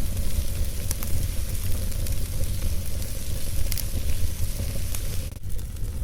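Wood fire burning in a fireplace: a steady low rumble and hiss of flames, with sharp crackles about a second in and near four seconds.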